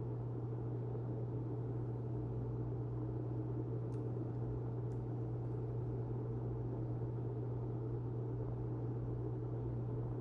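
Steady low hum of a running appliance motor or fan, unchanging throughout, with a couple of faint ticks.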